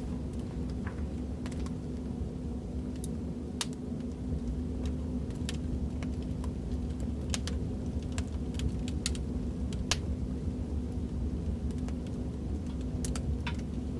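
Fireplace crackling: a steady low rumble of burning logs with irregular sharp pops and crackles, several every few seconds.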